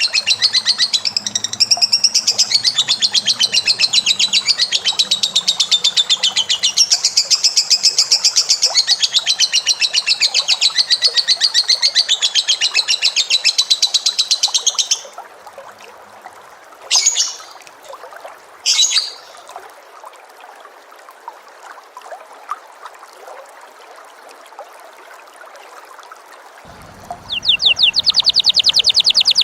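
Cage bird recorded for song-tutoring, giving a long, very rapid, high-pitched chattering trill for about fifteen seconds. Then a pause broken by two short chirps, and another rapid trill starts near the end.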